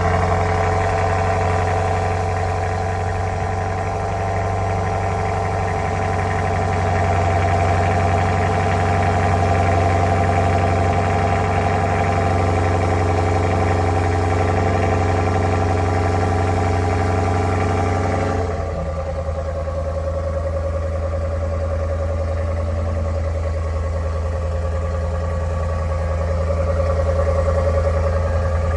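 BMW M850i's 4.4-litre twin-turbo V8 idling steadily through the factory exhaust just after a cold start. About 18 seconds in its note drops and becomes quieter, then it idles on evenly.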